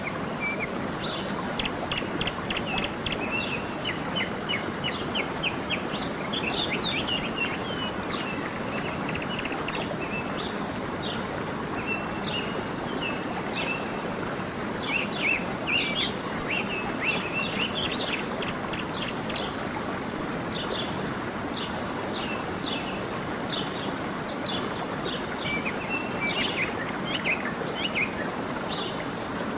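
A stream running steadily, with songbirds chirping and trilling throughout in short, repeated calls.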